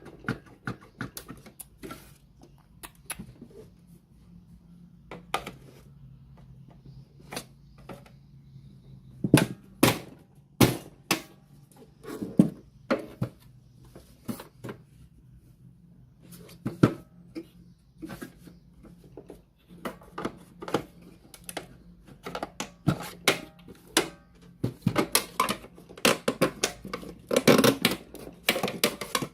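Irregular clicks and knocks of tools and small parts being handled while working on a radio cassette player, denser near the end, over a faint steady low hum.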